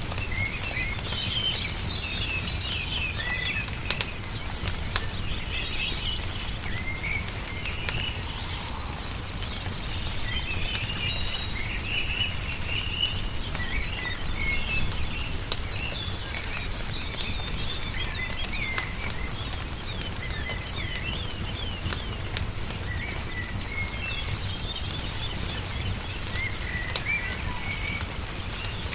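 Small songbirds chirping and singing over a crackling wood fire, with frequent sharp little pops and a steady low rumble underneath.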